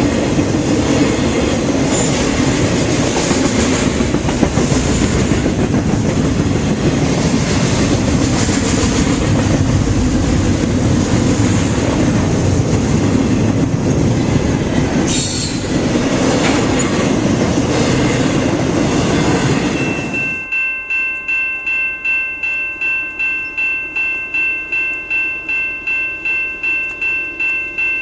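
Freight train passing at a grade crossing: a steady rumble and clatter of wheels on rail for about twenty seconds. Then an abrupt cut to a crossing bell ringing about twice a second.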